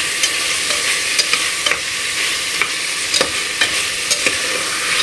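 Potatoes and onion-tomato masala sizzling steadily as they fry over full gas in a pressure cooker, with a metal slotted spatula scraping and knocking sharply against the pot several times as they are stirred.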